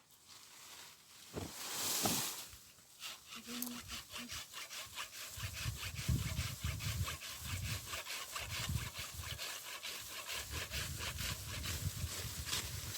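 Rapid, even rasping strokes of a hand tool cutting, about five a second, starting about three seconds in, after a brief louder rustle.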